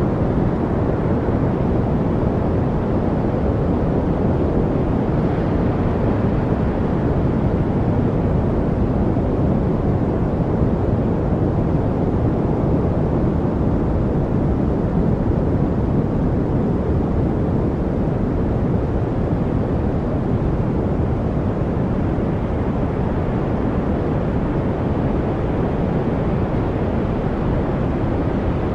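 Steady, unchanging white-noise track, weighted toward low pitches with little hiss at the top, with no breaks or separate sounds.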